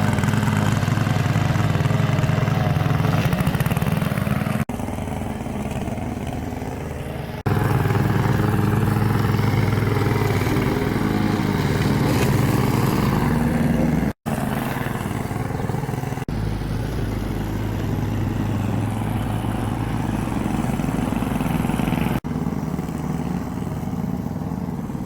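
Lawn mower engine running steadily while cutting grass. Its level jumps abruptly, louder or softer, at several points.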